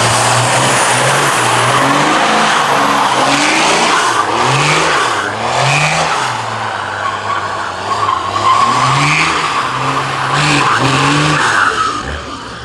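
A car doing a burnout: the engine revs up and falls back again and again while the spinning tyres squeal, easing off near the end.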